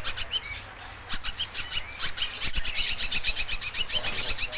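Young ashy drongo calling: rapid runs of short, raspy high notes, many a second, in several bursts with brief pauses between.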